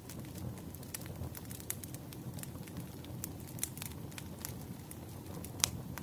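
Crackling wood fire: irregular snaps and pops over a low steady rumble, with one louder pop near the end.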